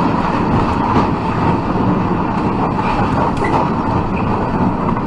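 A train passing at a railroad crossing, recorded by a car's dashcam: a loud, steady noise of the rail cars going by.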